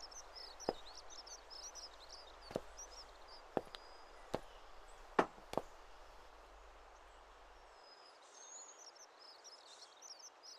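Small birds chirping steadily, with about six sharp knocks at uneven intervals in the first six seconds.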